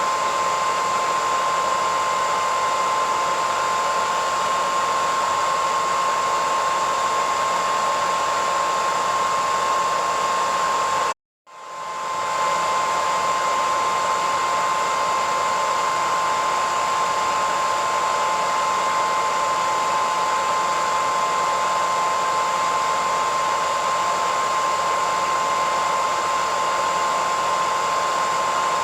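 A hair dryer running steadily: the rush of air with a steady whine over it. About eleven seconds in it cuts out for a split second, then swells back up to full level.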